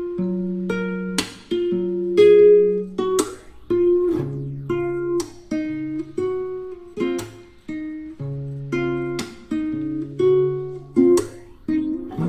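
Background music: plucked acoustic guitar picking a melody of separate notes, each note ringing and fading.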